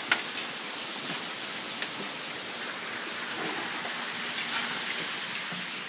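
Steady downpour of rain from a hailstorm, with a few sharp ticks.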